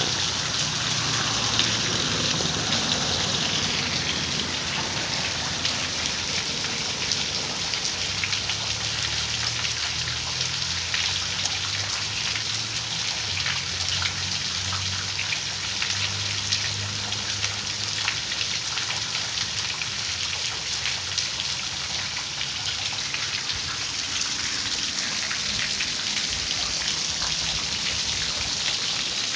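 Steady rain falling, with many small raindrops pattering on nearby surfaces.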